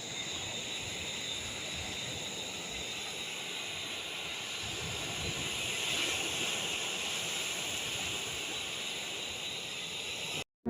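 Steady rush of heavy water, an even hissing noise that cuts off abruptly near the end.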